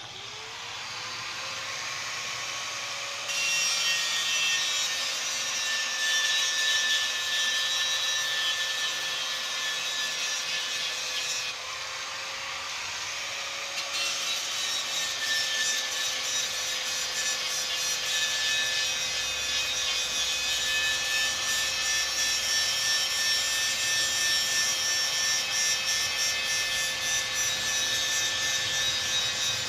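A handheld power tool spins up with a rising whine and then runs steadily. From about three seconds in, its abrasive disc or brush rubs and grinds against the workpiece. The grinding eases off for a couple of seconds near the middle while the motor keeps running, then resumes.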